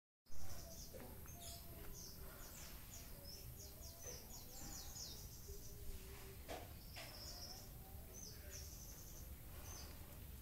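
Small birds chirping: quick series of short high-pitched notes, some in rapid runs, over a steady low outdoor background, with a short knock as the sound cuts in at the very start.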